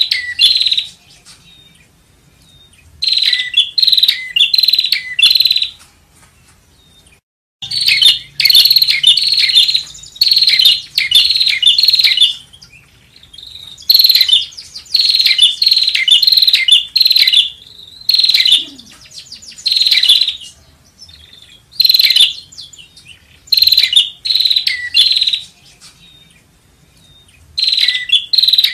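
Prinia (prenjak) calling: loud bursts of rapid, high chirping notes in phrases a second or two long, repeated again and again with short pauses between them.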